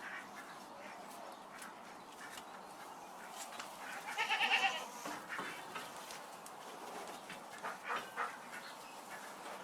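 A farm animal bleating, with one loud, wavering bleat about four seconds in and fainter calls later.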